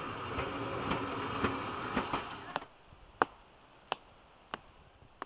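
Railway carriages rolling past close by: a steady rattling rumble with regular wheel clacks, cutting off about two and a half seconds in. Then, over quiet, four sharp taps come about two-thirds of a second apart.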